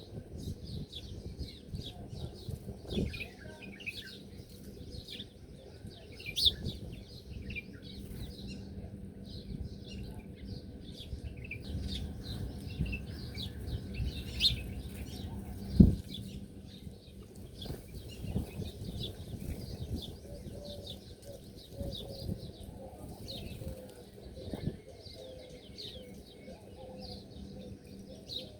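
A flock of small birds chirping busily, many short high calls overlapping, over low rustling and wing flaps with scattered thumps; one sharp thump stands out about sixteen seconds in.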